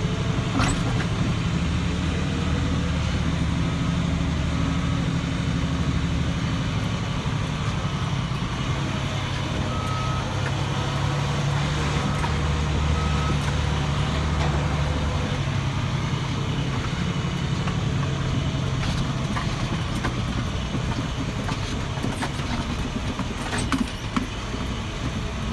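Heavy diesel truck engine running steadily on a construction site, with a backup alarm beeping about once a second through the first half.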